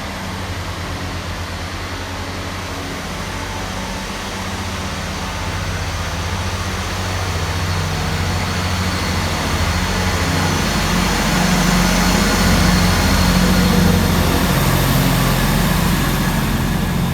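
Class 158 diesel multiple unit pulling out of the station, its underfloor diesel engines working under power with a low, steady note that grows louder over the first dozen seconds and eases slightly near the end.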